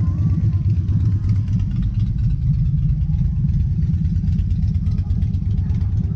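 Car engine idling with a deep, steady low rumble.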